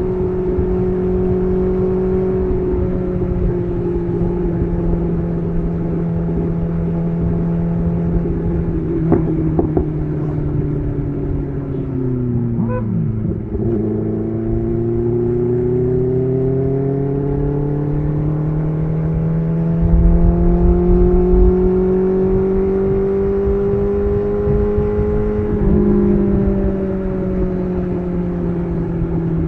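BMW S1000RR inline-four engine running through an SC Project titanium exhaust while riding. The note sinks slowly to a low point about halfway through, then climbs steadily in pitch under throttle until a gear change drops it near the end.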